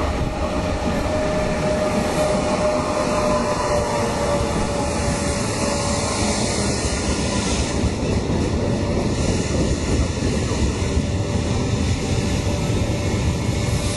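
Train moving through a railway station: a steady rumble and rush of noise, with a thin whining tone that fades out midway and returns.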